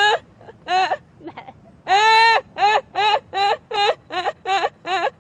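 High-pitched, exaggerated crying: a run of short wailing sobs, one longer wail about two seconds in, then quicker sobs about two or three a second.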